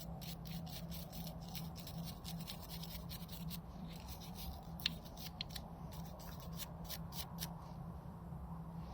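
Small hand tool scraping and picking inside a motorcycle wiring connector, a quick run of scratchy clicks as corrosion is cleaned off the terminals, stopping near the end. A steady low hum runs underneath.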